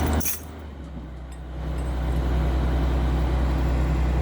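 Engine running with a steady low hum; it drops away sharply just after the start and builds back up to a steady run over the next second or so.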